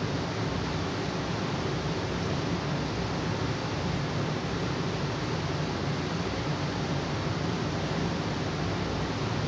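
Steady, unchanging rushing hiss, like running water or a fan, with no separate events.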